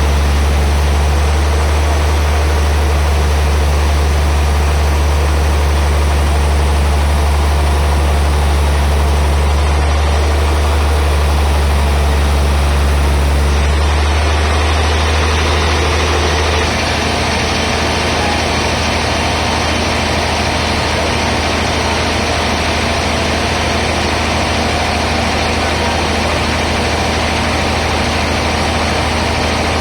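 Sawmill band saw machinery running steadily with a loud, deep hum. The sound shifts about halfway through: the hum changes pitch and a rushing hiss grows louder above it.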